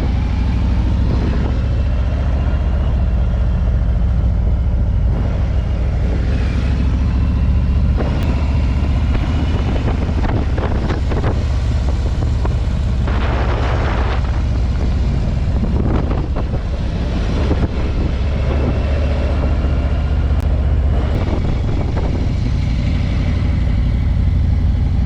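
Motorcycle engine running steadily while riding, a constant low rumble.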